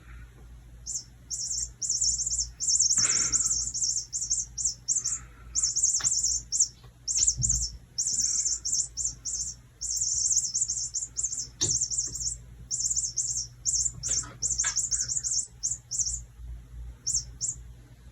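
Electronic bird-sound chirper in a cat wand toy, chirping in fast, high-pitched runs broken by short gaps, with a few light taps mixed in.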